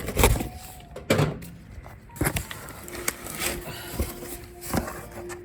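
Hard objects being handled: about five separate knocks and clunks, with rustling and scraping between them.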